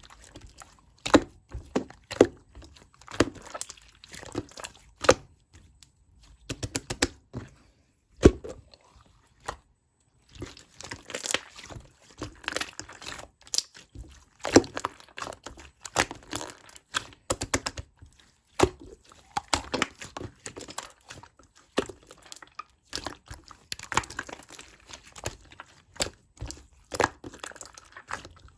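Hands squishing and stretching slime, making a continuous run of sticky clicks, pops and crackles, with a short pause about ten seconds in.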